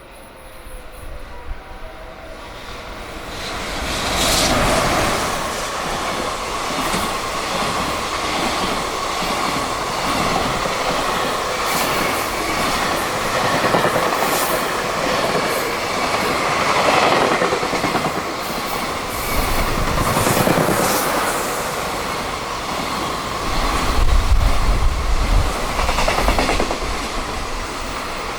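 Two high-speed container freight trains, hauled by an EF210 and an EF66 electric locomotive, pass at speed in opposite directions on the through line, their wagons' wheels running loudly over the rails. The sound builds about four seconds in and stays loud, with a deep rumble near the end.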